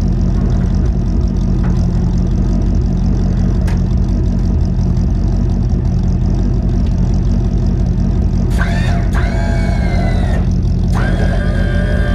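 A 1963 Chevrolet Impala's engine idling steadily while the hydraulics raise the rear of the car.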